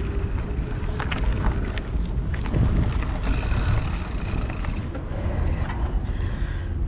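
Wind buffeting an action camera's microphone with the rumble of mountain-bike tyres while riding, with a few small clicks and rattles.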